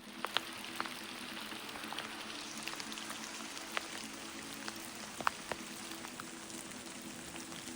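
Steady heavy rain falling, with individual drops landing close by as scattered sharp ticks, over a soft background music bed.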